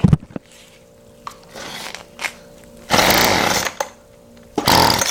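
Two-stroke engine of a Weed Eater Featherlight FL25 string trimmer being cranked on its recoil starter: two short, loud whirring pulls, about a second and a half apart, without the engine keeping running. The owner puts this down to fuel not getting through.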